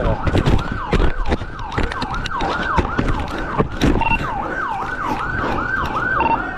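Police siren sounding a fast repeating rise-and-fall, about two to three sweeps a second, over a heavy low rumble and irregular knocks.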